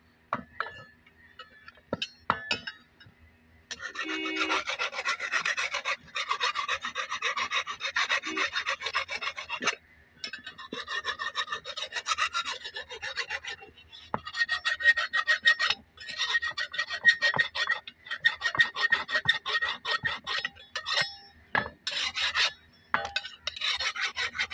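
A hand file rasping in quick back-and-forth strokes, in several bouts of a few seconds each with short pauses between them. A few separate clicks come before the first bout.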